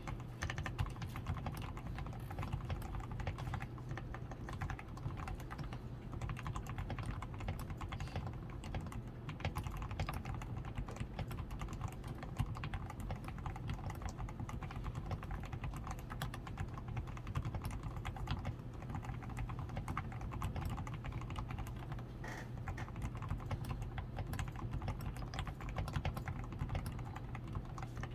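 Continuous typing on a DAREU A87 Pro mechanical keyboard, a dense unbroken stream of keystrokes. The board is fully lubricated with Krytox 105, with a tape-modded PCB, Poron foam in the switches, lubed stabilizers and XDA keycaps.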